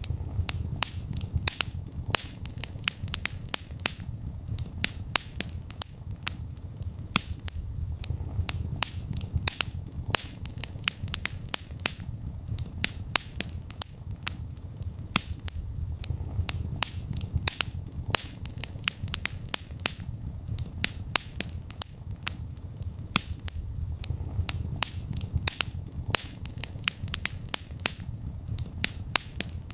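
Wood fire burning in a fireplace: a low steady rumble of flames with irregular sharp crackles and pops, several a second.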